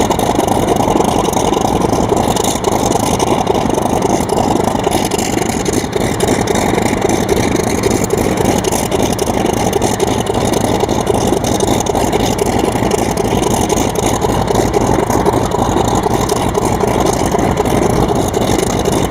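A mini model aeroplane's motor running steadily at constant speed, with no change in pitch or level.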